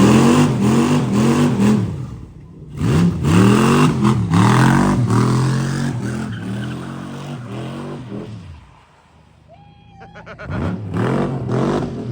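Turbocharged 6-litre engine in a Chevy C10 burnout truck revving hard in quick repeated blips, each rise and fall lasting about half a second. After a brief dip about two seconds in, the blips run on and slow. They fade out for about two seconds near the end, then the revving starts again.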